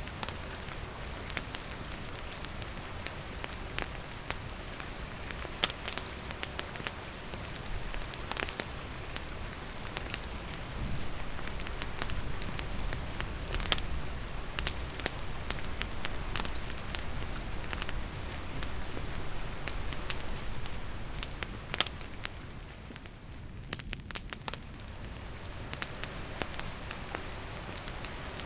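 Wood fire crackling with scattered sharp pops, over a steady hiss of rain falling.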